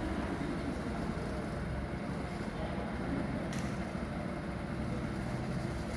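Go-kart engine running steadily under way, a dense low mechanical noise without big changes in revs.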